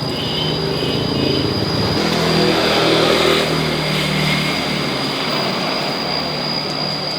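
A motor running steadily, with a low drone that drops in pitch about two seconds in and a constant high whine over it.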